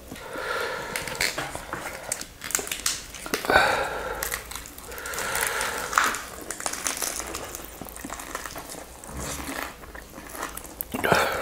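Close-miked chewing and biting of roast chicken and fresh greens, a run of short crunching clicks.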